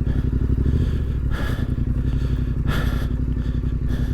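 Parallel-twin adventure motorcycle engine running steadily at low revs on a slow off-road trail section, with a couple of brief hissing scuffs over it.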